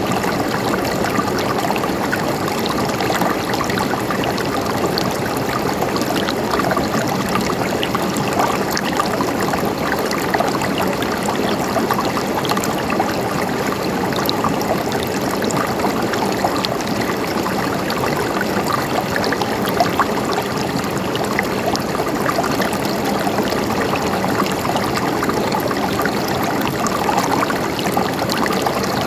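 Mountain stream flowing steadily over rocks, a constant babble of gurgling and trickling water.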